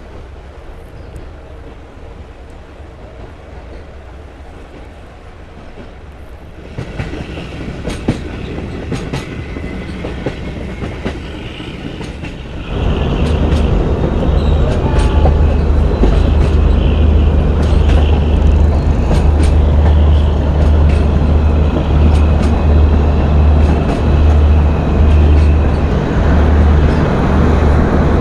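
Passenger train running, wheels clicking over the rail joints. About seven seconds in the running noise grows louder with frequent sharp clicks and a faint wheel squeal, and about thirteen seconds in a loud, steady deep rumble sets in and keeps on.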